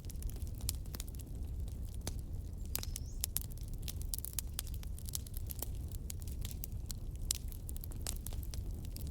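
Wood logs burning in a fireplace, crackling with frequent sharp pops over a steady low rumble, and a brief high whistle about three seconds in.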